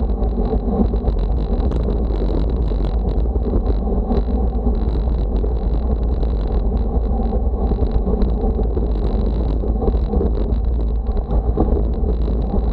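Steady wind rumble on the microphone mixed with road noise while moving at speed, with no breaks or single events.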